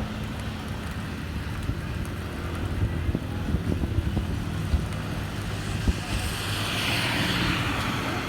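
Rain falling, with the steady low hum of road traffic underneath and scattered sharp drip ticks. About six seconds in, a broad hiss swells and fades over two seconds, like tyres passing on a wet road.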